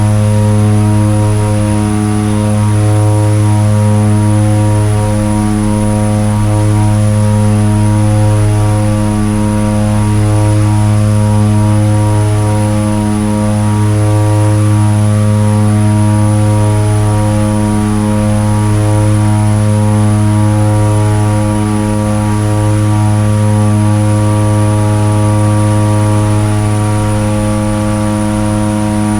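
Seaplane's propeller engines droning steadily at a low pitch, with a slow regular rise and fall in loudness every two seconds or so and a thin, steady high whine above.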